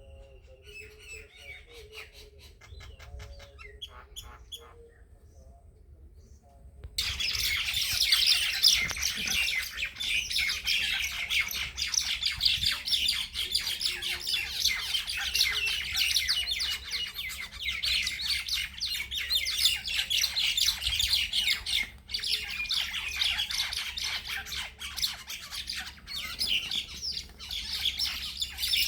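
Birds squawking in a fight: a few faint chirps, then about seven seconds in a sudden outbreak of loud, rapid, harsh calling that keeps going.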